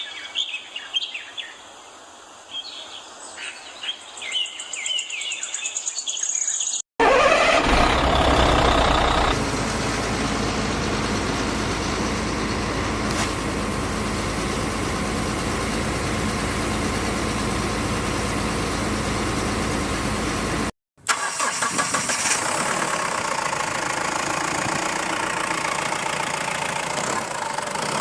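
Birds chirping for the first few seconds, then an engine starts and runs steadily. After a short break the engine runs on with a slightly different tone.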